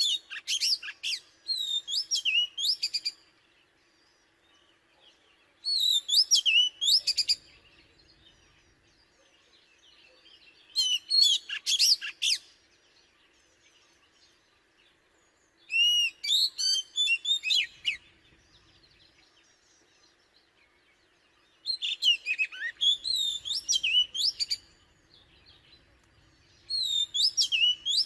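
An Oriental magpie-robin singing loud phrases of quick, varied whistled notes, about six in all, each lasting one and a half to three seconds with short pauses between them.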